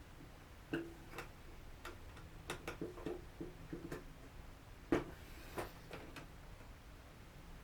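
Small, irregular clicks and taps of a small screwdriver and fingers on the drone's plastic shell while tiny screws are tightened down, the sharpest tap about five seconds in.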